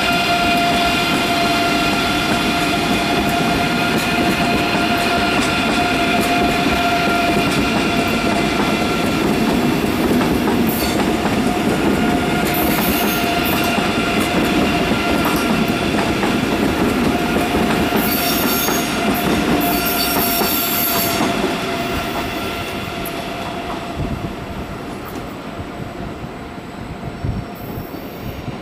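Deutsche Bahn ICE 3 high-speed electric multiple unit rolling past and pulling away: steady whining tones over wheel and rail noise, with short bursts of high-pitched wheel squeal partway through. The sound fades over the last several seconds as the train recedes.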